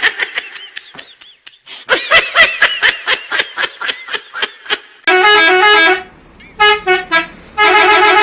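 Telolet bus horn, a multi-tone horn playing a short stepping tune in three loud bursts over the second half. Before it comes a rapid run of sharp clicks and chirps.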